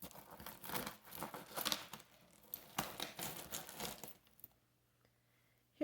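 Costume jewelry being handled: small metal and bead pieces clicking against each other, with some rustling, in a quick irregular run that stops about four and a half seconds in.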